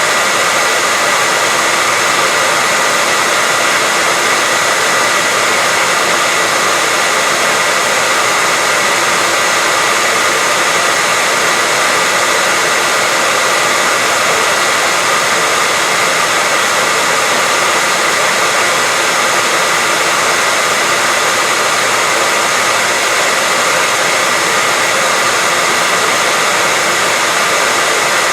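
Hair dryer blowing steadily, a constant rushing hiss with a steady high whine in it.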